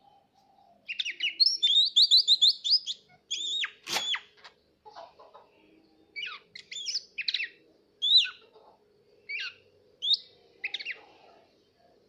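Green leafbird (cucak ijo) singing: a fast run of rising whistled chirps about a second in, then separate short whistled notes every half second to a second.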